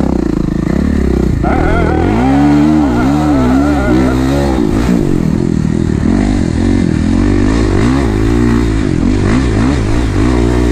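Kawasaki KX450 dirt bike's single-cylinder four-stroke engine revving up and down while being ridden, its pitch rising and falling with the throttle every second or so.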